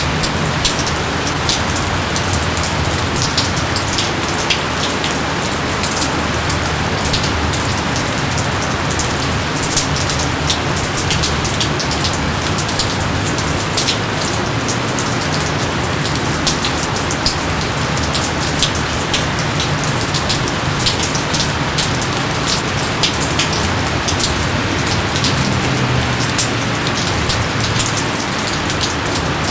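Steady heavy rain falling, a dense even hiss with many sharp drop ticks throughout.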